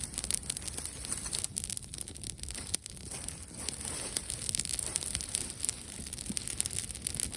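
Wood campfire crackling, with an irregular run of small sharp pops over a low hiss.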